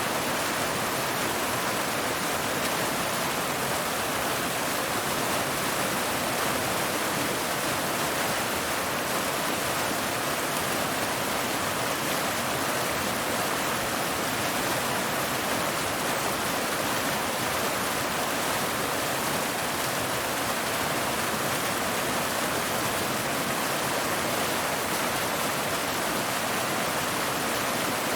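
Waterfall: water pouring steadily onto rocks, an even rushing sound with no breaks.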